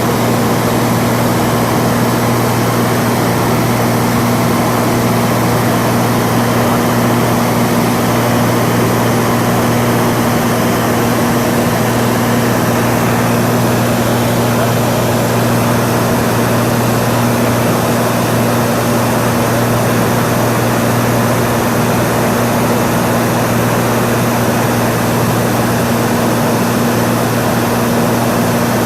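Cessna 182 in cruise flight: a steady engine-and-propeller drone with an even rushing noise, unchanging in pitch and loudness.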